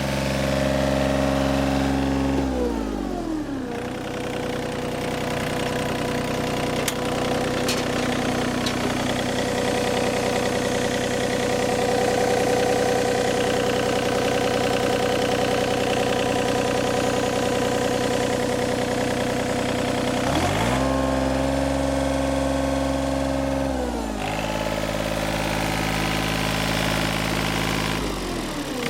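Yanmar 3TNE84 three-cylinder diesel engine of a John Deere 3235B fairway mower running, throttled down about two seconds in and held at the lower speed, revved back up about twenty seconds in, then dropping in steps near the end.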